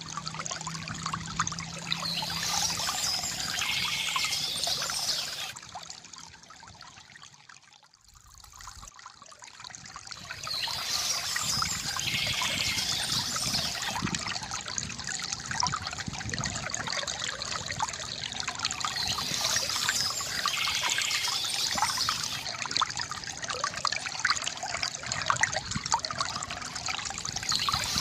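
Water trickling and gurgling from a bamboo fountain, with birds chirping in patches that come back every several seconds. The sound fades down about a quarter of the way in and then swells back.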